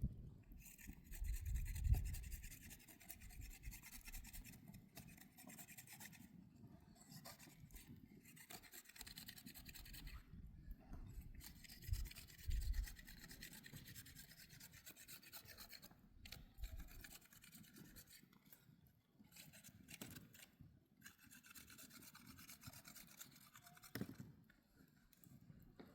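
Faint rasping and rubbing in stretches of a few seconds with short pauses between, with a few soft low thumps.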